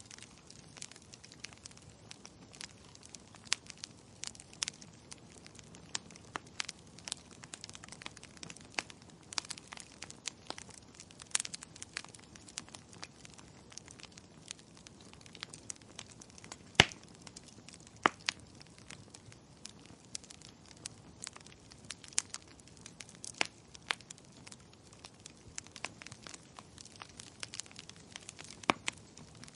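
Wood fire crackling in a fireplace: irregular sharp pops and snaps over a faint low hiss, with a louder snap a little past the halfway point.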